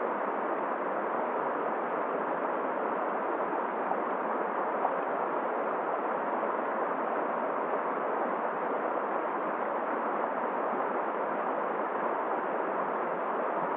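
Steady rushing of a flowing, near-freezing river mixed with blizzard wind, an even noise that doesn't change.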